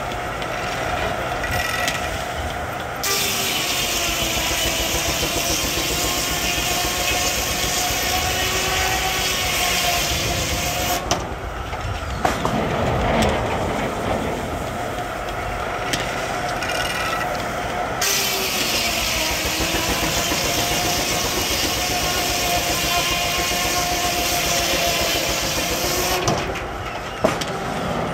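Sawmill saw cutting through a log twice, each cut lasting about eight seconds, with the blade's whine bending in pitch as it takes the load. The mill is driven by a steam traction engine, which runs steadily between cuts, and there are a few knocks midway.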